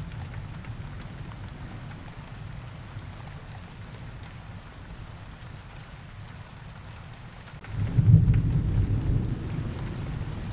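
Steady rain with rolling thunder; a loud low thunder rumble swells suddenly near the end.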